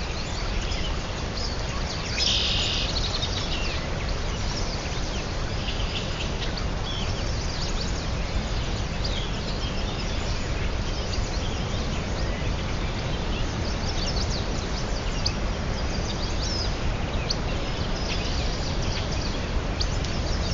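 Birds chirping, many short high calls scattered throughout over a steady low background rumble, with a louder, harsher burst about two seconds in.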